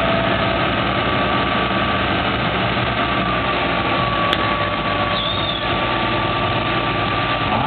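Mobile crane's diesel engine running steadily, with a steady high whine over it. A single sharp click about four seconds in.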